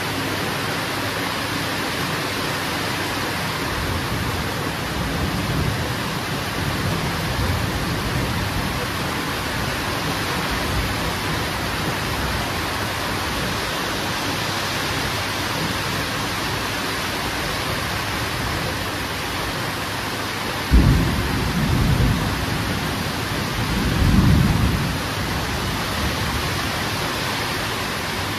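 Steady heavy rain hissing, with distant thunder rumbling low in the first half. About three-quarters of the way through, a sudden close clap of thunder, followed by two rolling rumbles that swell and die away.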